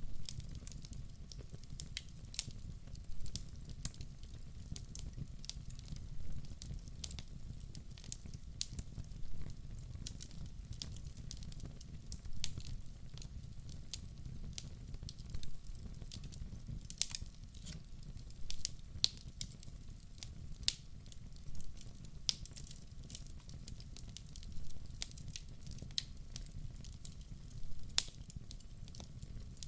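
Wood fire burning in a fireplace: frequent sharp crackles and pops at irregular intervals over a steady low rumble of flame.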